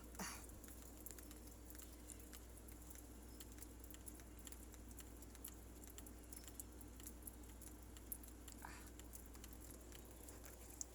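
Faint rain pattering, with scattered drops ticking.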